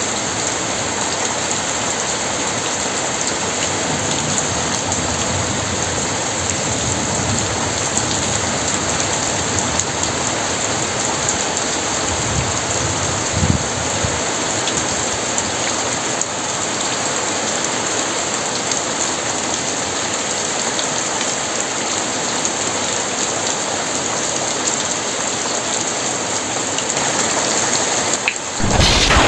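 Very heavy rain pouring steadily on a surface, a dense even hiss. Near the end a loud thunderclap suddenly breaks in with a deep rumble.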